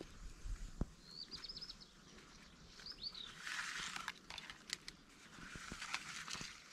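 A small bird chirping: a quick run of high notes about a second in and a short pair of notes near three seconds, over faint clicks and rustling.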